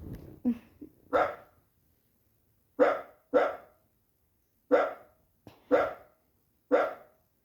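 Dog barking: short single barks, sometimes in quick pairs, about one a second, each alike. The identical barks with silent gaps between fit a recording of a barking dog being played back.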